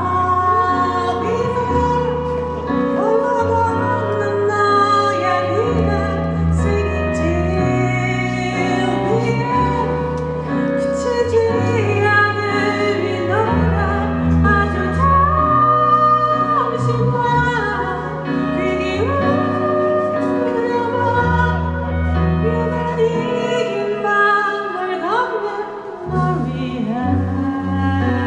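A live band playing a song, with a singer carrying the melody over the band's accompaniment.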